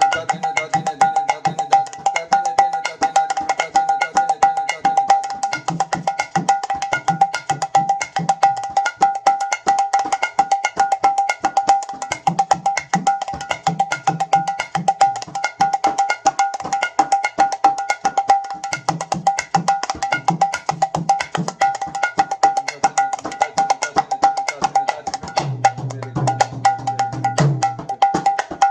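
Mridanga played fast and continuously: rapid sharp, snapping strokes on the ringing treble head (the "nak" or chutki stroke), with deep bass strokes from the left head coming in several times.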